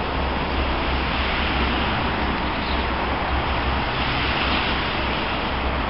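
Heavy rain falling steadily, a constant hiss, with a low rumble underneath.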